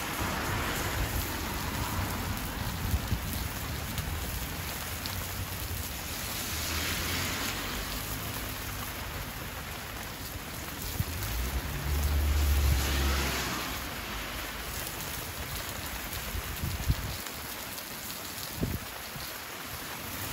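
Steady hiss of rain, with wind buffeting the microphone in a low rumble about two-thirds of the way in. A few sharp crackles come from the wood fire in the grill.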